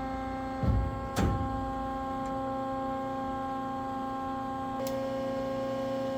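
Steady electric hum of the Hydmech V-18 bandsaw's motor running, with two sharp knocks about a second in and a click near the end, after which the hum's tone changes.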